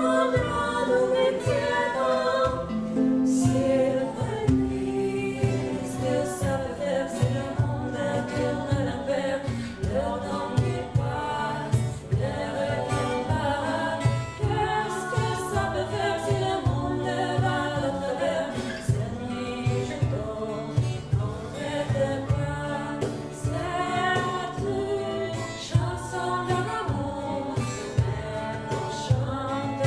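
Live singing with acoustic plucked-string accompaniment.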